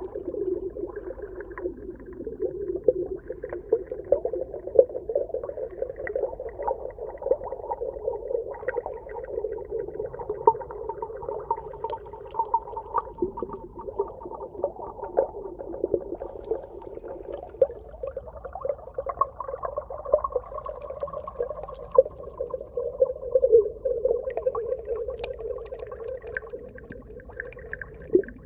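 Underwater ambience: low, wavering moaning tones, with a higher tone joining for a few seconds about two thirds of the way through, over frequent faint crackles.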